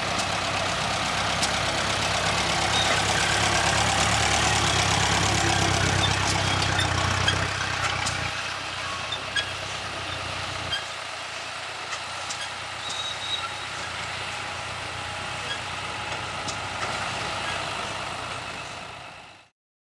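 Tractor engine running steadily; its low hum drops away about eight seconds in and again near eleven seconds. The sound cuts off shortly before the end.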